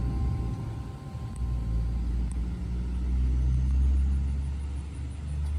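Low, steady vehicle rumble, heavier from about a second and a half in.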